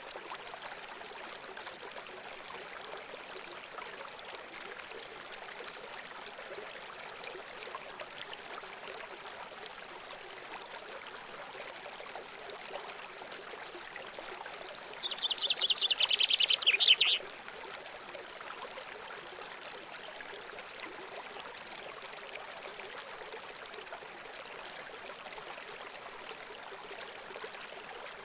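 Steady running water of a trickling stream. A little past the middle, a songbird gives one loud, rapid trill lasting about two seconds.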